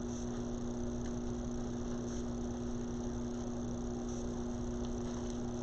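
Steady electrical hum at two fixed pitches, over a faint even hiss, with a few very faint light ticks.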